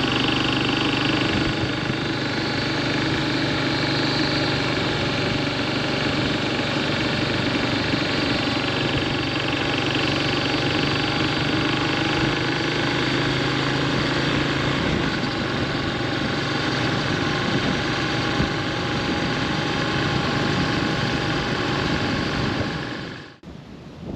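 Yamaha SR400's carbureted single-cylinder engine running at a steady speed. It stops abruptly near the end.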